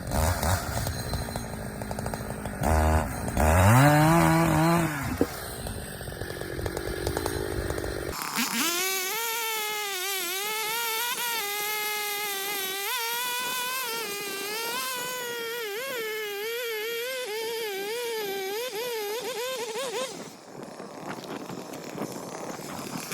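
Two-stroke chainsaw revving up, then held at full throttle with its pitch wavering under load as it cuts through a wet maple log, until it drops off about 20 seconds in. The chain has gone dull.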